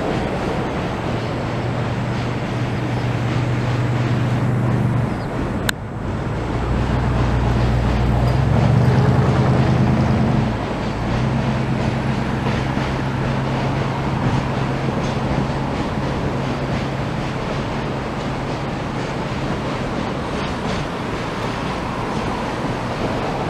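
Steady rushing noise of high floodwater and wind, with a vehicle's low hum that builds, is loudest about nine seconds in, and fades away. A sharp click about six seconds in.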